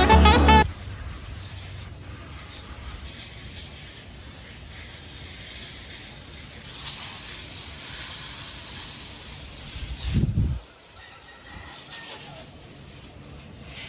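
Water spraying steadily onto potted plants, an even hiss, with one dull thump about ten seconds in.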